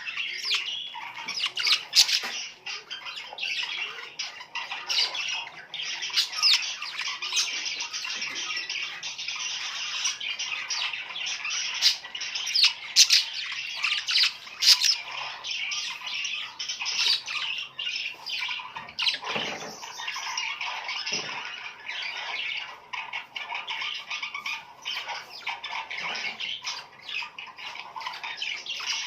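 A flock of small birds chirping and squawking without pause, many short, sharp calls overlapping.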